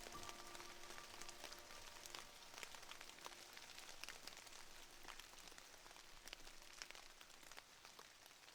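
Soft rain pattering, many small scattered drops over a faint hiss, with gentle sustained music notes fading out in the first couple of seconds.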